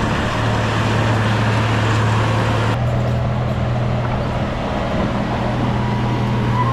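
Bulldozer's diesel engine running steadily with a deep, even hum and the clatter of the working machine; the sound changes abruptly about three seconds in.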